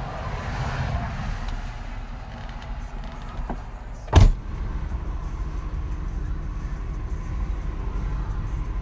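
Cabin noise of an Opel Omega B 2.5 DTI on the motorway: its common-rail inline-six diesel running under a steady low rumble of tyres and wind. A single sharp thump comes a little past four seconds in.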